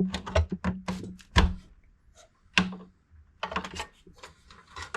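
Plastic clicks and knocks of hands working cable connectors inside a desktop PC case, as the CPU power plug is unlatched and pulled. There is a run of small sharp clicks, with two louder knocks.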